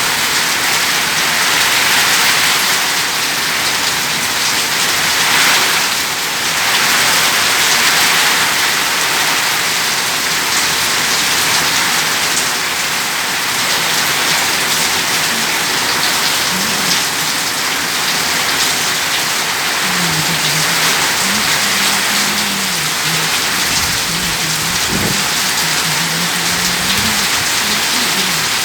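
Heavy rain pouring steadily, a dense hiss of drops on surfaces that swells a little a few seconds in.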